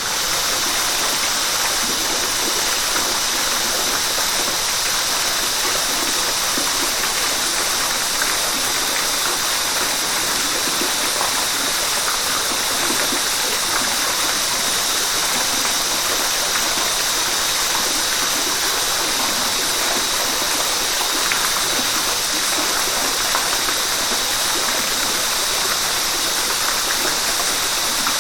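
Flowing river water, a steady, even rush.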